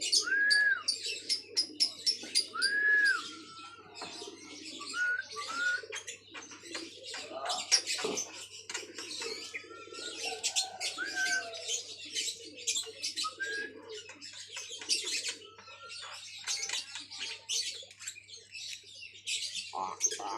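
Javan myna calling: a few arched whistled notes near the start, then a long run of harsh, rapid chattering and clicking calls.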